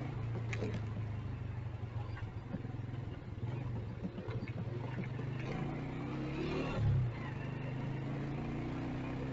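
Motorcycle engine running in city traffic, its pitch rising in the second half as it accelerates. A brief loud low thump about seven seconds in.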